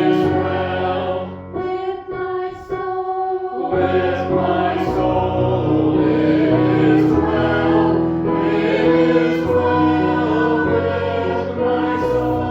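Church choir singing over held low accompanying notes, with a short pause between phrases about two seconds in.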